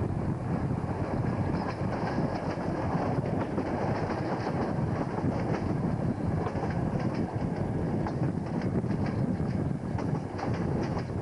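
Passenger train hauled by an SP32 diesel locomotive running along the line, heard from an open coach window: steady rumble and rush of the coaches with the wheels clicking over rail joints, the clicks coming thickest as the train crosses a set of points in the second half.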